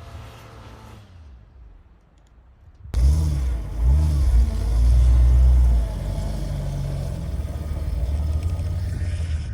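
A 4x4's engine revving up and down several times, loud and low, starting abruptly about three seconds in and settling into a steady run afterwards. Before that, a quieter engine sound fades away.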